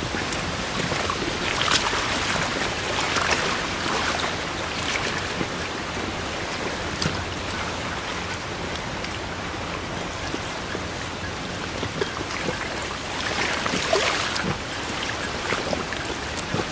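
Forest ambience: a steady wash of water-like noise with many small scattered ticks and pops, swelling briefly a few times.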